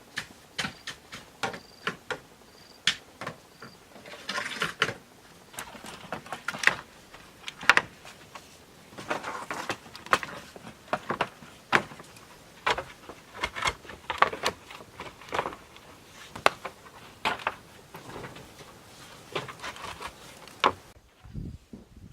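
Hand building work with bamboo: irregular sharp knocks and clacks, several a second at times, with short pauses between bursts.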